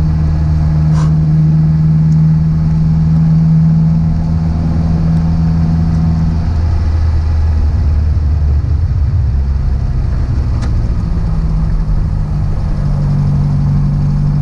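Renault 5 Alpine Turbo's turbocharged four-cylinder engine, heard from inside the cabin, running at a steady pitch. About six seconds in its note drops and turns rougher as the car eases off, and near the end it settles back into a steady pitch.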